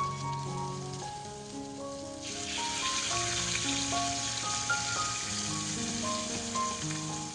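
Raw chicken sizzling in hot oil in a frying pan: the sizzle starts suddenly about two seconds in as the piece is laid in, then hisses steadily, over light background music.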